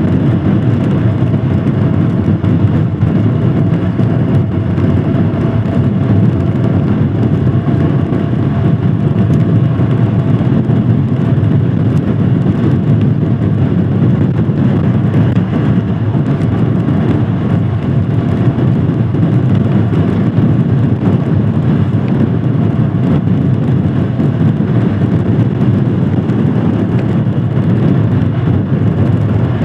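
Royal Enfield Himalayan Scram 411's single-cylinder engine running steadily while the motorcycle is ridden, under a dense, even rush of riding noise. The pace holds steady, with no revving up or down.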